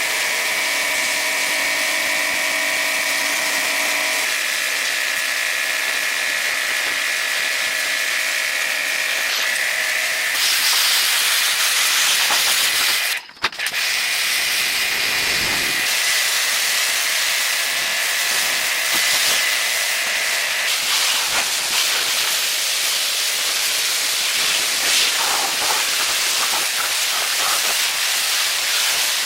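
A steady, loud hiss with a high machine whine over it for the first two-thirds, broken by a short drop about 13 seconds in.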